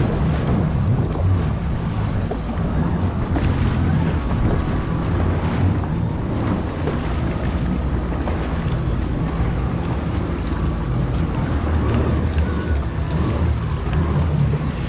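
Jet ski engine idling, a steady low hum, with wind buffeting the microphone and sea water around the hull.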